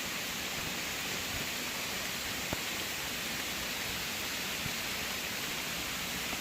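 Steady hiss of rain and rushing water from a waterfall, with one sharp tick about two and a half seconds in.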